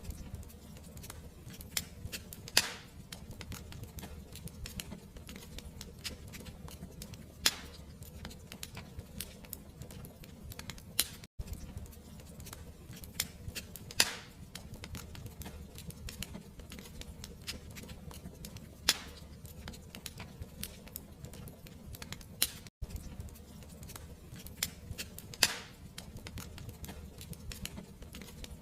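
Wood fire crackling: a steady low rumble under dense small crackles, with a louder pop every five or six seconds. The sound cuts out for an instant twice, about eleven and twenty-three seconds in.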